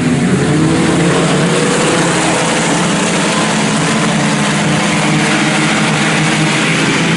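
A pack of IMCA Sport Compact four-cylinder race cars running at speed around the oval, several engines overlapping in a loud, steady drone.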